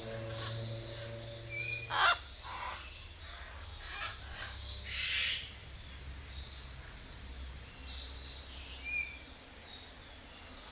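Birds calling in an aviary: several harsh, raucous squawks, the loudest about two seconds in, with a few short whistled chirps between them. A low steady hum is underneath and stops about two seconds in.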